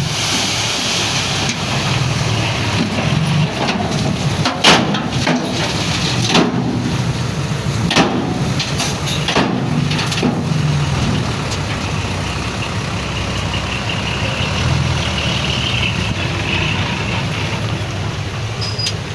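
Heavy diesel earthmoving machinery running steadily, with several sharp metallic clanks about 4.5 to 10 seconds in.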